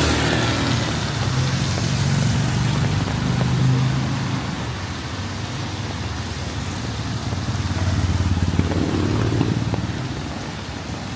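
Motor vehicles passing on a wet, flooded city street, their engine rumble loudest in the first few seconds and swelling again near the end, over a steady hiss of rain and water.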